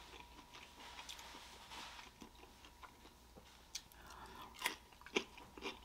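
Close-up eating sounds: quiet mouth noises, then a bite into a raw cucumber slice and crisp crunches as it is chewed, starting about four seconds in.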